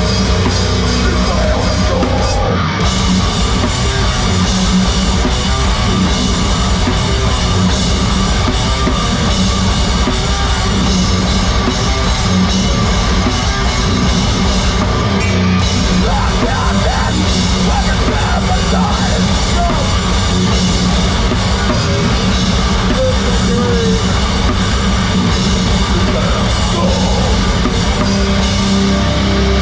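Heavy rock band playing live, loud and distorted, with a pounding drum kit, recorded from the crowd.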